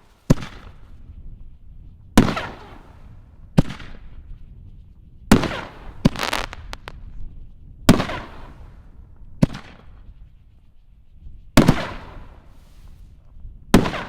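A volley of 5-inch canister shell fireworks: about nine sharp bangs one to two seconds apart, each trailing off in a short rumble.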